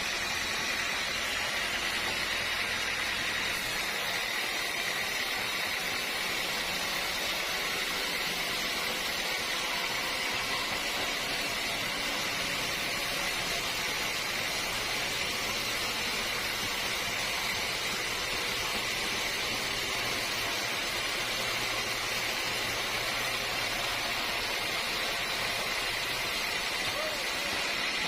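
Sawmill machinery running steadily, a continuous even noise with a high-pitched edge and no pauses.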